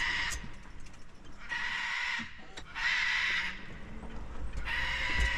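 Parrot screaming: four harsh, loud squawks, each well under a second, about one and a half seconds apart.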